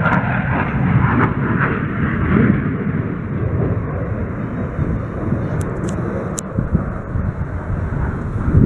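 Aircraft engine noise, a steady rumble whose higher part fades over the first few seconds as it moves off, with a few faint clicks about six seconds in.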